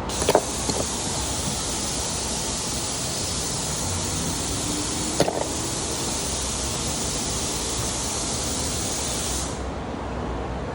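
Long steady hiss of a pressurised spray, starting with a click and knock, with a short clack about five seconds in, then cutting off about nine and a half seconds in.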